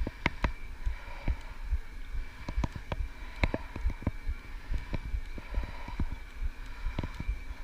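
Electric bike being ridden over a rough track, with irregular rattles and knocks from the bike jolting over bumps and low thumps, over a faint steady whine.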